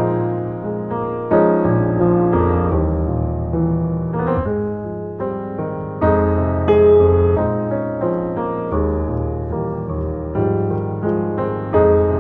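Background music: a piano playing a gentle tune over a bass line.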